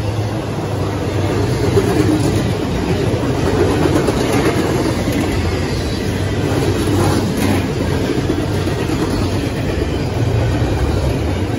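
Intermodal freight train's loaded well cars and trailer flatcars rolling past: a steady rumble of steel wheels on the rails, with some clatter from the wheels and cars.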